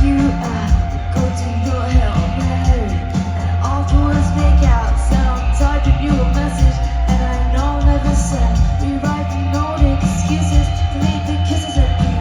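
Live rock band playing a song, with a sung vocal over heavy bass and a steady drum beat.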